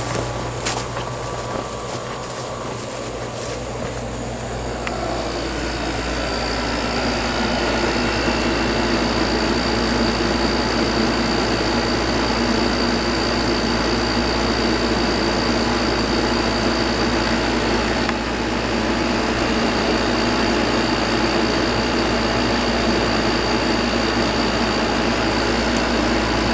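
Vintage air conditioner running, its compressor and condenser fan making a steady mechanical hum. The hum grows louder over the first several seconds and takes on a steady high whine on top.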